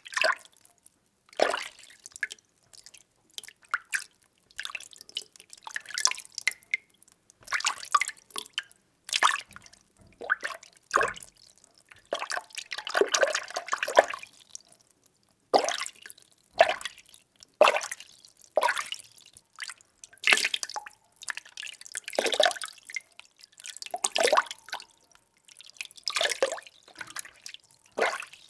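Water being stirred: short, irregular splashing strokes about once a second, with one longer swirling stretch about halfway through.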